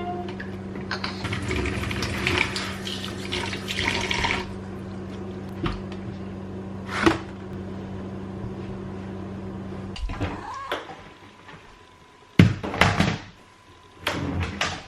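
Kitchen tap running into a sink for about three seconds, over a steady low hum that stops about ten seconds in. Several sharp knocks and clatters of kitchen items being handled follow.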